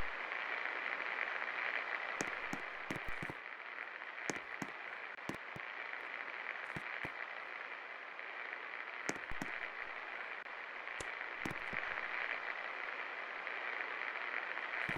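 24-inch Best Electric Works Alpha ceiling fan running with a steady rush of air, broken by scattered sharp clicks at irregular moments.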